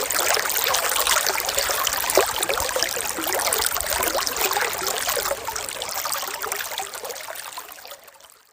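Running water trickling and babbling, with many small splashes and gurgles. It fades out over the last three seconds.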